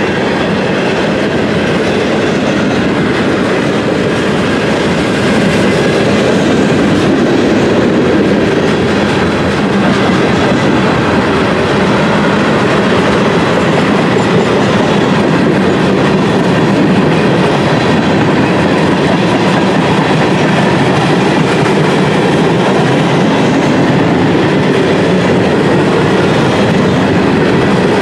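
Freight cars of a long mixed freight train (boxcars, covered hoppers, tank cars) rolling past close by: steady noise of steel wheels on the rails, a little louder from about five seconds in.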